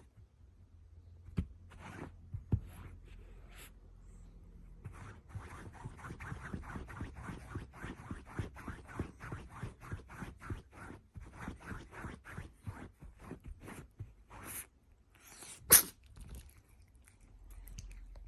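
A cat eating greedily, crunching food in a quick run of bites at about four a second. Near the end there is a single sharp, loud snap.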